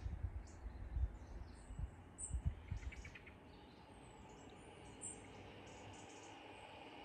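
Outdoor ambience: a few short, high bird chirps over a steady faint hiss. Low buffeting on the microphone runs through the first three seconds.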